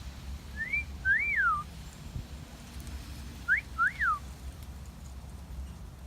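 Two wolf whistles, each a short upward note followed by a longer note that rises and then falls away, about a second in and again about three and a half seconds in.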